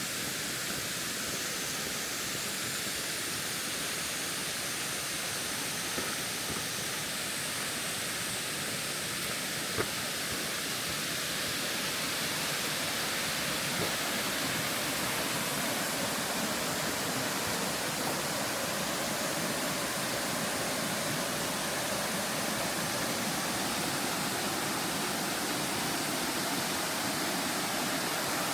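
Steady rush of falling water from a waterfall, growing slightly louder, with a few faint clicks.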